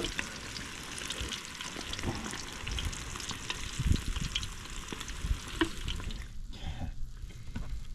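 Catfish nuggets frying in hot oil in a cast iron pan: a dense, crackling sizzle with scattered clicks and knocks, the nuggets golden and about done. The sizzle drops away about six seconds in.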